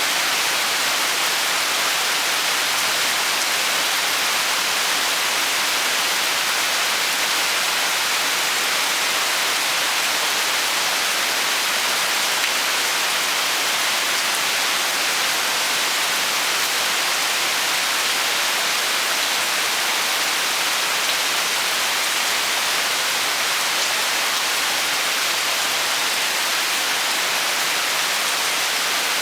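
Rain falling steadily, an even hiss with no single drops or changes standing out.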